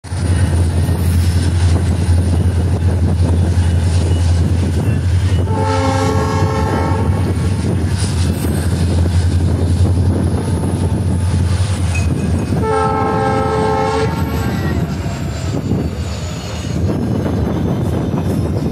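Passenger train moving off, a steady low rumble of the running coaches, with the locomotive's horn sounding twice, each blast about a second and a half long and roughly seven seconds apart.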